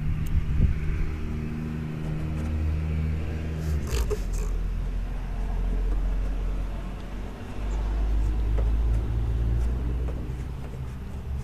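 A motor vehicle engine runs with a steady low drone, shifting in pitch a couple of times, and a short hiss sounds about four seconds in.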